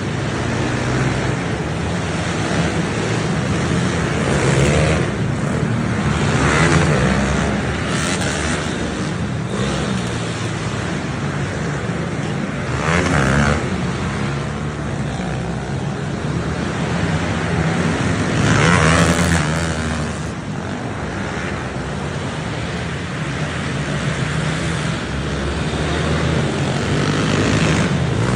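Small pit bike engines running and revving hard, the pitch swelling up and falling back several times as the bikes accelerate and shut off.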